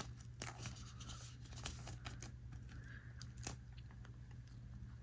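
Faint rustling and light clicks of trading cards and a foil booster-pack wrapper being handled, over a low steady hum.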